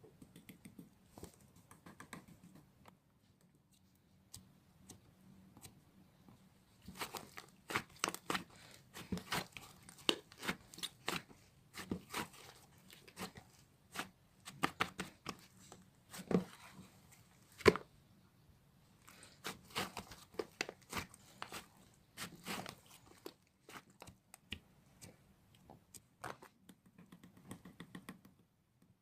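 Crinkly material being handled close to the microphone: irregular crackling, crumpling and tearing sounds. They are faint at first, come in busier, louder bursts from about seven seconds in, with one sharp snap near the middle, and grow faint again over the last few seconds.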